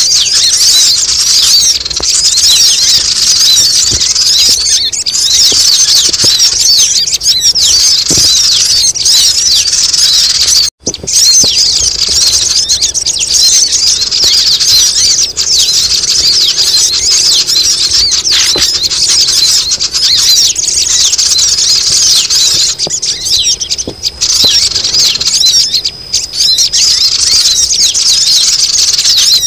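Dense, loud chorus of sogon (crimson sunbird) calls, rapid high-pitched chirps and squeaks overlapping without a break: a noisy lure recording used to call sunbirds down. The sound cuts out for a split second about 11 seconds in.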